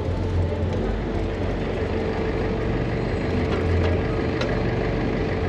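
Steady city road traffic with a low engine hum.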